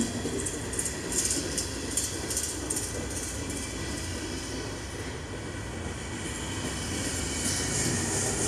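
Freight train's covered hopper cars rolling past at close range: steel wheels on rail make a steady rumble, with sharp high-pitched clicks repeating irregularly through the first few seconds.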